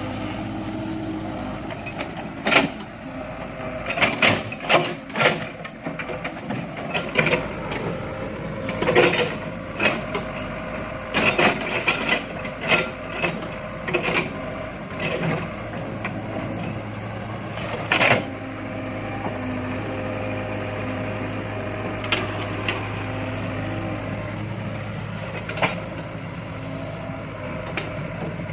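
Excavator engine running steadily under load while the bucket digs out palm stumps and roots, with a run of sharp knocks, clanks and cracks, thick through the first two-thirds and only a few near the end.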